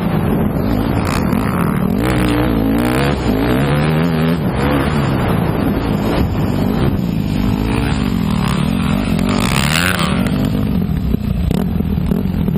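Motocross bike engine running under throttle as the bike is ridden, its pitch repeatedly rising and falling as it revs up and backs off.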